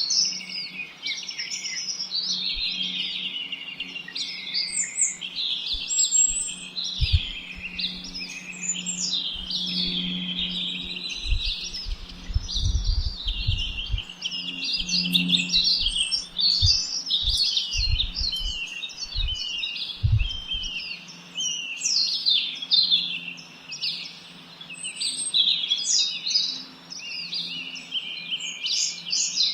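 Many small songbirds chirping and twittering at once, a dense, continuous chorus of short high calls and trills, with a faint low hum underneath and a few soft low knocks around the middle.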